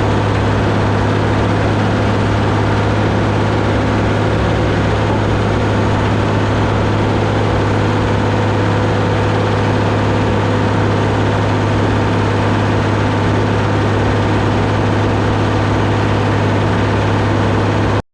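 Deutz D130 06 tractor's air-cooled diesel engine running steadily at a constant speed, with a strong low hum, while it pulls a round baler. The sound cuts off abruptly at the very end.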